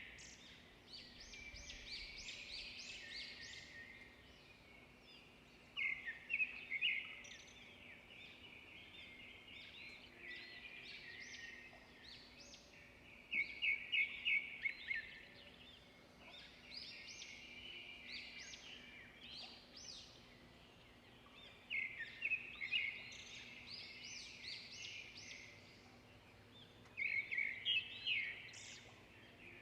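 Songbirds singing: a steady run of chirps and warbles, broken about every seven or eight seconds by a louder burst of quick repeated notes.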